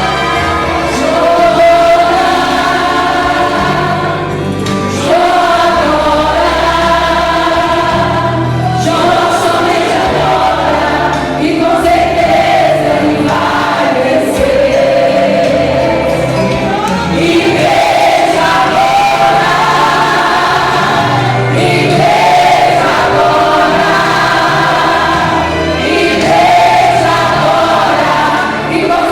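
Gospel song: a group of singers in chorus over a band with steady bass.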